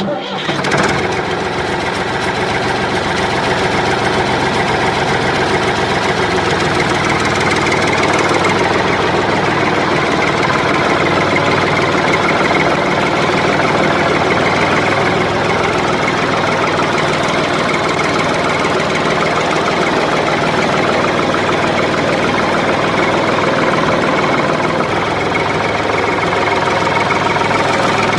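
A DIY mini tractor model runs steadily, a continuous engine-like drone that starts suddenly and keeps going without a break.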